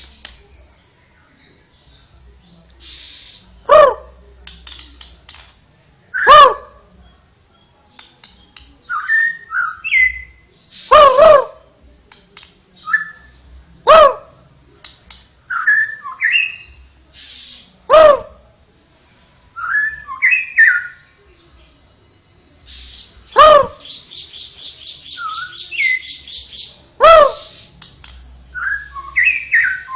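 Tledekan songbird singing: loud, sharply down-slurred whistles every few seconds, with short chirpy phrases between them and a fast buzzy trill of about eight notes a second roughly two-thirds of the way through.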